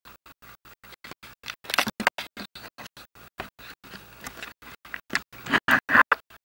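Linear camera dolly's carriage running along its rail, a rubbing, noisy sound that swells about two seconds in and again, loudest, near the end.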